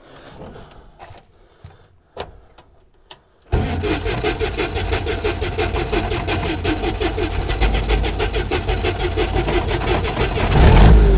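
UAZ 469's four-cylinder petrol engine starting for the first time after two months standing. After a few faint clicks it catches suddenly about three and a half seconds in and runs with an even beat, getting louder near the end as it is revved.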